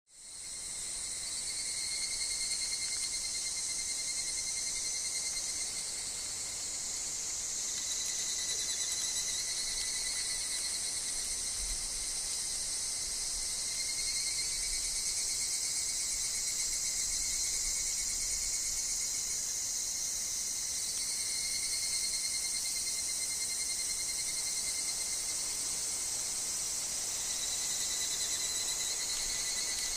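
Dense, steady chorus of cicadas and other insects in a Japanese woodland, including higurashi (evening cicadas), fading in over the first second. The high shrill layer holds throughout, with steady lower tones under it.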